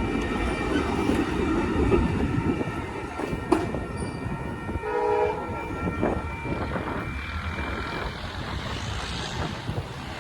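Train running on the rails with a steady rumble and wheel clatter; the locomotive's horn sounds briefly about five seconds in.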